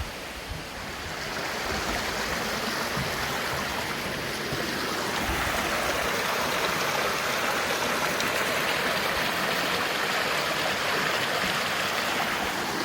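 Steady rush of running water, swelling a little about a second or two in and then holding even.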